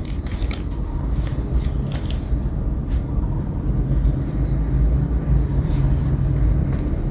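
Steady low rumble of passing street traffic, with a handful of sharp clicks in the first three seconds from a Zippo lighter being handled.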